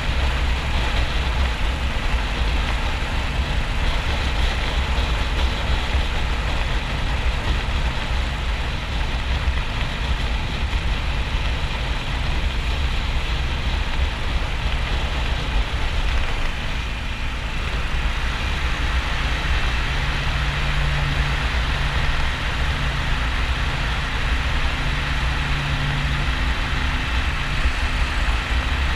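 Motorcycle riding at motorway speed: heavy wind buffeting the camera microphone over the running 1200 cc V-twin engine of a 2009 Harley-Davidson XL1200N Sportster. A steady low engine tone comes through more clearly in the last third.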